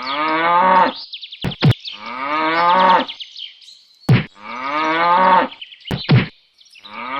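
Cow mooing, the same call repeated three times about every two and a half seconds, like a looped recording, with sharp clicks between the moos.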